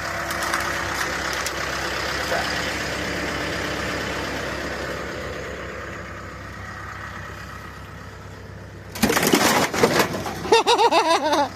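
An engine idles steadily and fades a little. About nine seconds in, a sudden loud burst of noise lasts about a second. A voice follows near the end.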